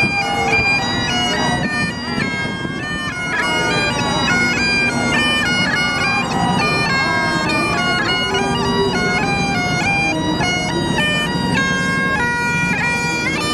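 Bagpipes playing a tune, the melody moving in quick steps over a steady drone.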